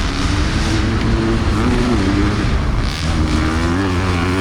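Dirt bike engine revving on the track, its pitch climbing and dropping several times as the rider works the throttle and shifts.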